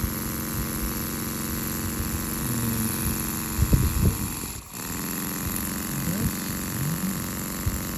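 Rocking Whale RW-V2 model V-twin double-acting steam engine running steadily on compressed air on its first run, with a brief dip in level about halfway through.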